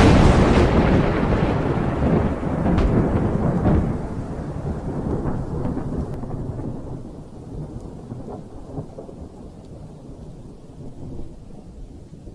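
Thunder: a sudden loud crack of a close thunderclap, with a few sharp crackles in the first few seconds, then a long rumble that slowly dies away.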